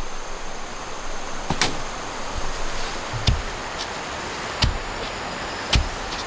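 Sharp knocks with a low thud, about one every second and a half, over a steady hiss.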